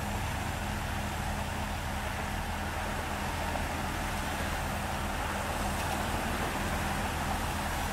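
Heavy diesel engines of asphalt paving machinery running steadily at a constant speed, with a continuous low drone and a steady mechanical hiss above it.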